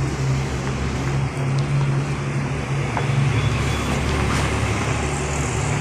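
Large diesel vehicle engine idling, a steady low hum over a background of general noise, with a few faint clicks.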